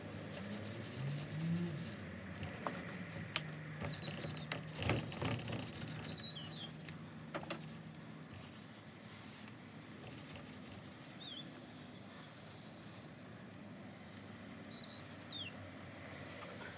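Small birds chirping in short scattered bursts, over a low steady hum, with a few faint clicks and knocks in the first half.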